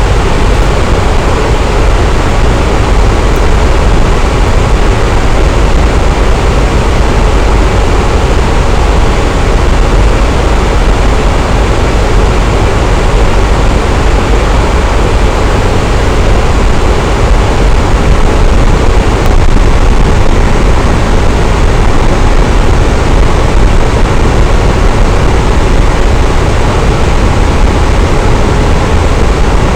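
Electric fan running steadily: a constant, even whoosh of moving air with a deep low hum underneath, no change in speed.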